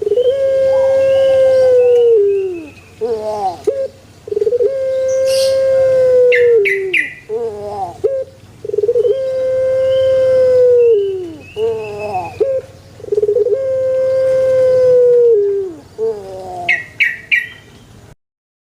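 Puter pelung (a long-cooing Barbary dove, Streptopelia risoria) cooing in its drawn-out song: four long coos, each held steady for over two seconds and then falling away, each led in by a few short falling notes. Twice, a quick run of three high chirps cuts in.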